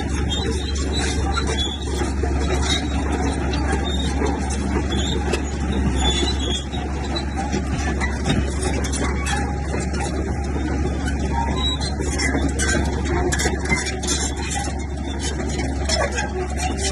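Komatsu bulldozer working: its diesel engine runs steadily under a dense, continuous clatter, with frequent short metallic clanks and squeaks over the top.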